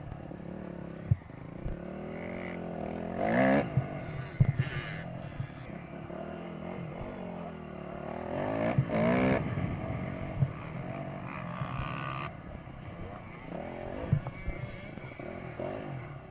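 Dirt bike engines revving up and dropping back several times, with a few short sharp knocks along the way.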